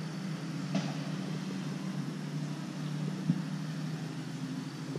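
Vehicle engine running with a steady low hum while rolling slowly along a road, with a faint tick about three seconds in.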